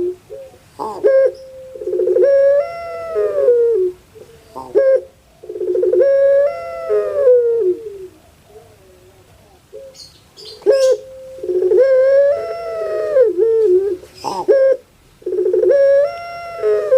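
Puter pelung, a Barbary dove, cooing its long drawn call about four times, a few seconds apart. Each call arches up in pitch and then slides down, with short clipped notes in between.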